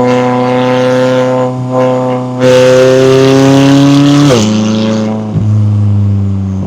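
McLaren 570S twin-turbo V8 exhaust under acceleration: the note climbs steadily in pitch and gets louder about two and a half seconds in. A little past four seconds it drops sharply with an upshift and settles into a lower, quieter steady drone.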